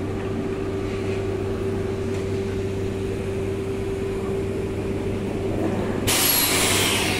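Electric SNCF TER trains at a station: a steady low hum, then a sudden loud hiss about six seconds in that lasts about a second.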